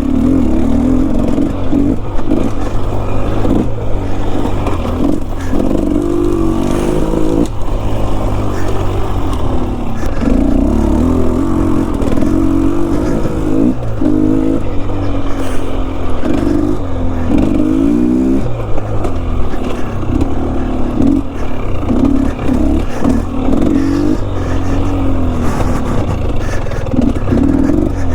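Enduro dirt bike engine revving up and down over and over, its pitch rising and falling every second or two as the throttle is worked on a steep, technical trail.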